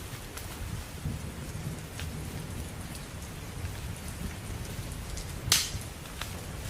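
Steady heavy rain with a low rumble of thunder. Faint ticks, and one loud sharp snap about five and a half seconds in.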